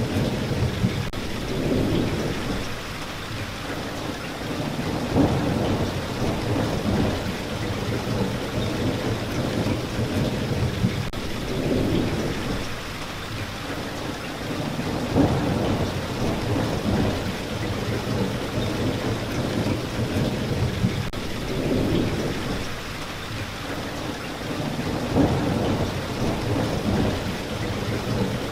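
Steady rain with low rolling rumbles, like distant thunder, that swell and fade every few seconds, and a few short sharp peaks.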